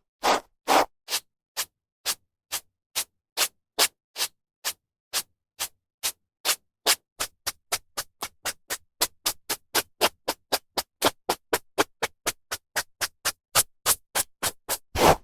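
Hairbrush strokes through hair: a long series of short swishes with silence between them, about two a second at first, quickening to four or five a second, then a few longer, louder strokes near the end.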